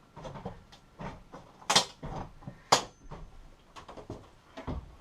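Glued-in interior pieces being pried and popped off a sailboat's cabin wall: sharp cracks and snaps, the two loudest about a second apart near the middle, among lighter knocks and a dull thump near the end.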